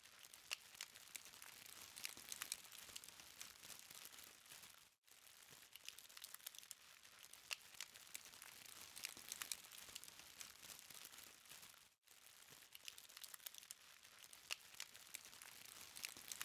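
Burning charcoal crackling faintly, a steady scatter of small sharp ticks and pops. The sound drops out briefly twice.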